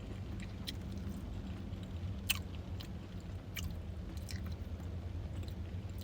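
A person chewing food close to the microphone, with scattered wet mouth clicks, one louder about two seconds in, over a steady low hum.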